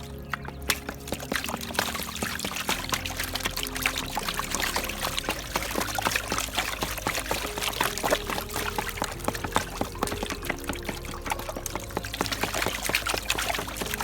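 Water sloshing and gravel rattling in a gold pan as dirt is washed down, with many small sharp clicks of stones, over background music.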